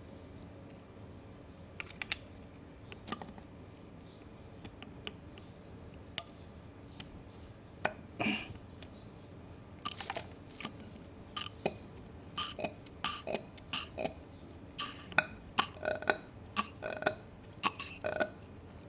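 Irregular light clicks and knocks of small engine parts being handled and fitted back together, sparse at first, then more frequent and louder over the last several seconds.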